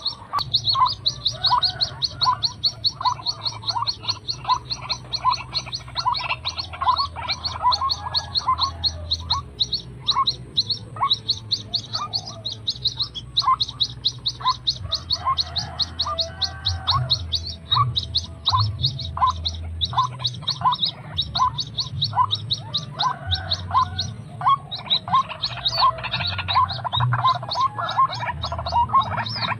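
White-breasted waterhen (ruak-ruak) calls used as a trapping lure: a long, unbroken run of quick repeated notes, about four a second, a high note paired with a lower one.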